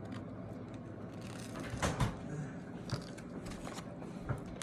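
Faint sounds of someone eating at the table: small clicks and a brief rustle about two seconds in, over quiet room tone.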